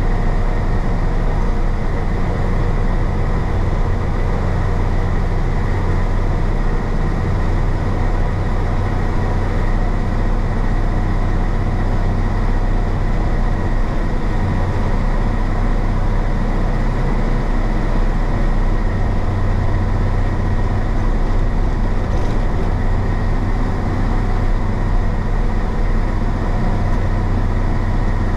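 The diesel engine of a 1966 Isuzu BXD30 bonnet bus (DA640) runs steadily while under way, as a constant low hum.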